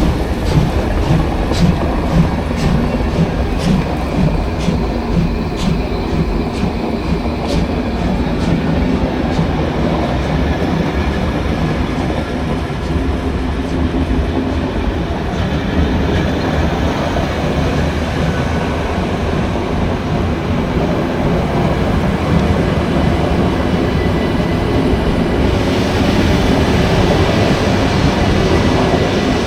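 Train running on the track: a steady rumble with regular sharp clicks about every three-quarters of a second for the first eight seconds or so, growing brighter and hissier near the end.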